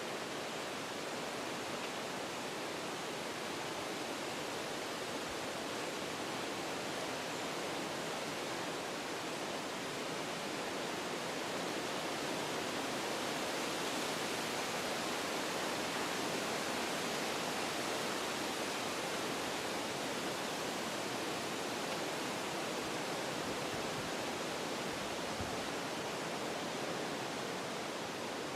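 Wind blowing through forest trees: a steady rushing of leaves and branches that swells a little in the middle and eases again toward the end.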